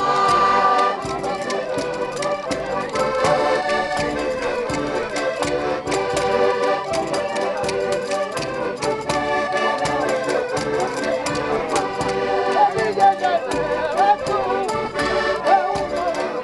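Traditional accordion music playing steadily, with frequent sharp percussive strikes.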